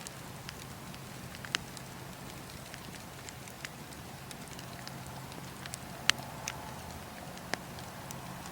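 Campfire crackling: a steady hiss broken by scattered sharp pops, the loudest about six seconds in, over a low steady hum.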